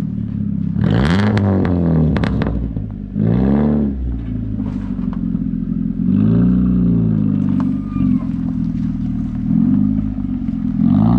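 A loud car engine blipped from idle about five times, each rev climbing and falling back, with sharp exhaust pops crackling after the first revs.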